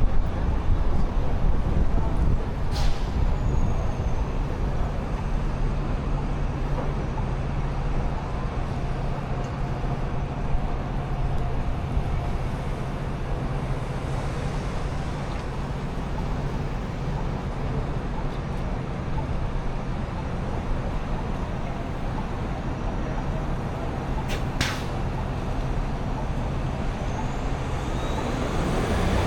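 Downtown street traffic: a steady low engine drone from heavy vehicles over general road noise, with two brief sharp hisses, one about three seconds in and one near the end.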